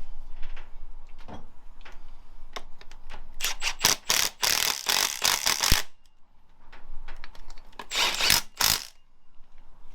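Hand tools working on the engine: scattered light clicks and knocks, then a couple of seconds of rapid ratchet clicking from about three seconds in, and a second shorter run of ratcheting near the end, as fasteners are tightened.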